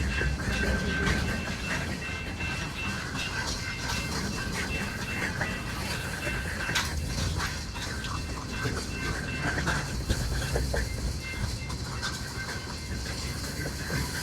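Freight train cars rolling along the rails, wheels clicking over the rail joints, with a thin high squeal that comes and goes above the steady rumble.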